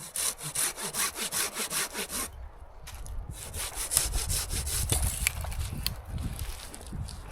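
Saw cutting through wood in quick, even back-and-forth strokes, with a short pause about two seconds in before the sawing resumes.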